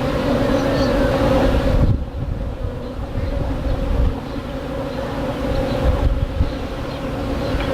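Honeybees buzzing in the air around a removed hive, a steady hum that dips briefly about two seconds in, over a low rumble of wind on the microphone.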